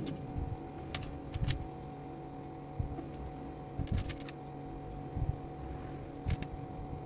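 A few sharp plastic clicks, singly and in short pairs, as building-set pieces are handled and fitted, over a steady low background hum.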